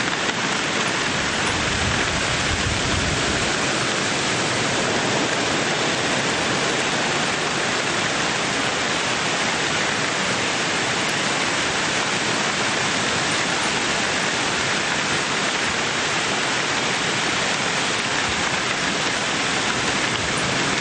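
Torrential hailstorm: hail and rain pouring down together in a loud, steady, dense hiss, with no single stones standing out.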